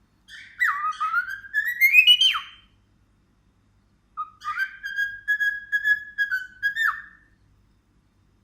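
Parrot whistling two phrases of a tune. The first rises in steps to a high note that breaks off with a quick drop. After a short pause, the second holds mostly level notes with small dips and glides.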